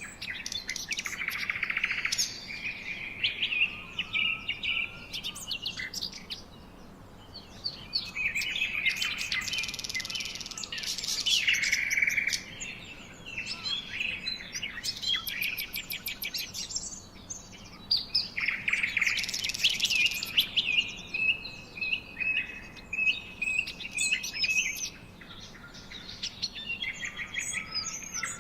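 Songbirds chirping and singing in bouts of several seconds: busy runs of high chirps and trills, with quieter gaps between the bouts.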